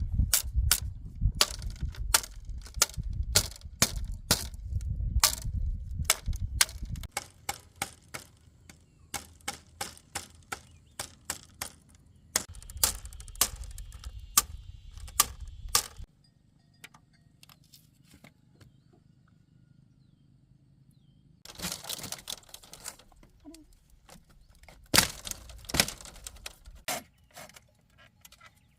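Hand tools working wood or bamboo: a long run of sharp knocks and taps, two or three a second, over a low rumble. After a few quiet seconds come short bursts of rasping strokes.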